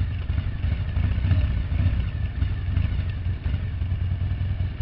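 Motorcycle being ridden, its engine a steady low rumble under an even hiss of noise.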